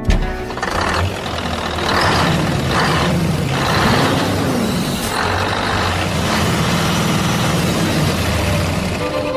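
A steady engine-like rumble with about five bursts of hissing, roughly a second apart, in the first half.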